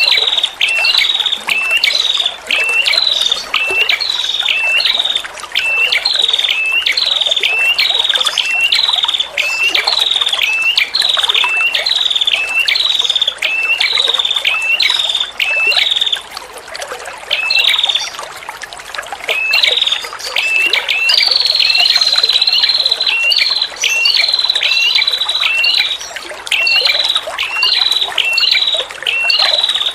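Female prenjak kepala merah calling: a fast run of sharp calls, about one and a half a second, each dropping in pitch, with one longer high trill about two-thirds of the way through. A steady trickle of running water sounds underneath.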